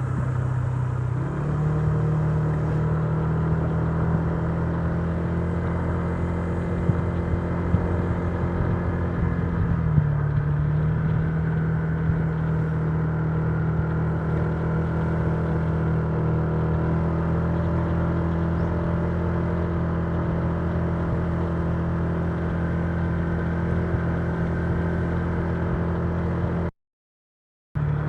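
Honda Giorno 125 scooter's single-cylinder engine running steadily under way. Its pitch dips and rises again twice, near the start and about ten seconds in. The sound cuts out completely for about a second near the end.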